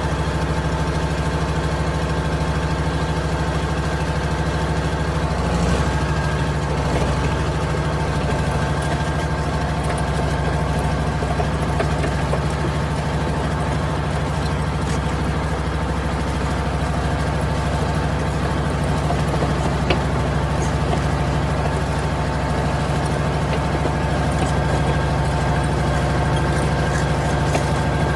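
Vehicle engine idling steadily, its pitch shifting slightly about six seconds in.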